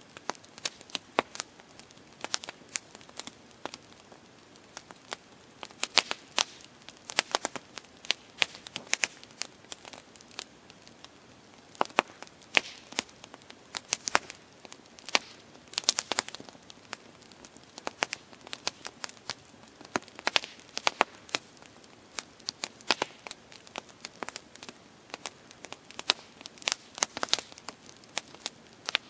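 Campfire crackling: irregular sharp pops and snaps of burning wood, often in quick clusters, over a faint steady hiss.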